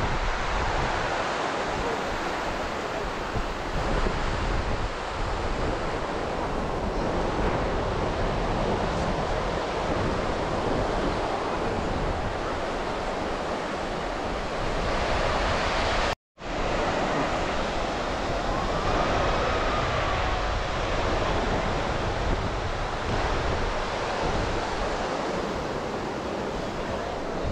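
Ocean surf washing onto a sandy beach, a steady rushing noise, with wind buffeting the microphone. The sound cuts out completely for a split second just past the middle.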